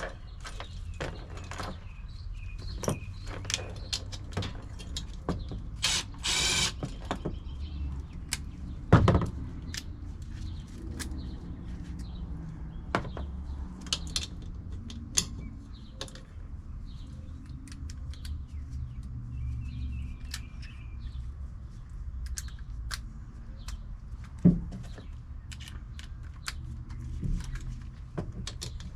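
Hand work on a furnace blower motor and its mount: scattered metal clicks and knocks, with a short rasping burst about six seconds in, over a low steady hum.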